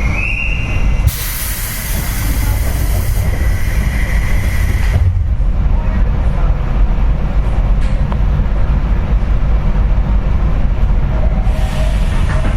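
Inside a JR West 201 series electric train car: a brief high tone, then about four seconds of compressed-air hissing as the pneumatic doors close, over the car's steady low rumble. A shorter hiss comes near the end.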